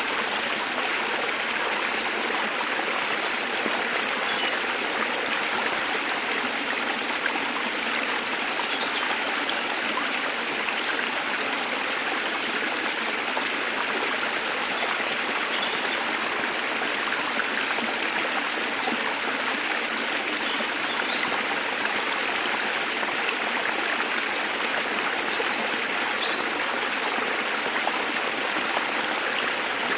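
Waterfall water flowing steadily, with a few faint, short bird chirps here and there.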